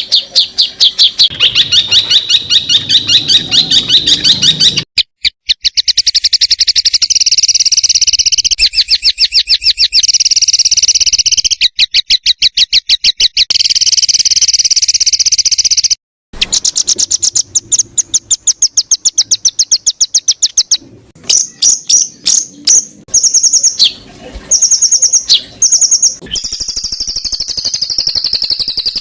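Songbird song made of long runs of rapid, sharp, high-pitched repeated notes, about ten a second: the 'tembakan' (shooting) phrases that bird-keepers use for tutoring. It stops abruptly about five and sixteen seconds in, and turns into a buzzier, drawn-out phrase near the end.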